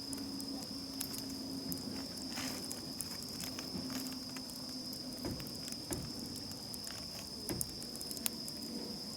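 Crickets chirring in one steady high note, with scattered sharp crackles from a wood campfire.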